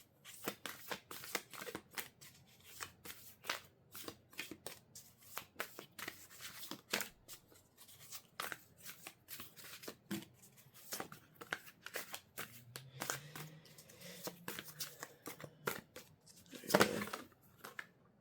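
A deck of thick-cardstock oracle cards being shuffled by hand: a fast, uneven run of soft card slaps and rustles, with one louder burst of noise near the end.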